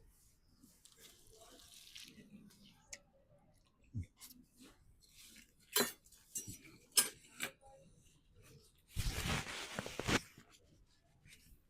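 Clicks, taps and crunching as a crispy chicken burger is handled and broken into, with a louder scraping rush lasting about a second near the end.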